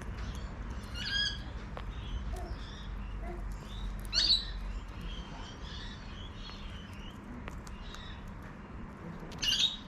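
Cockatoo giving three short, loud calls: about a second in, about four seconds in, and near the end. Faint chirps of other birds sound in between.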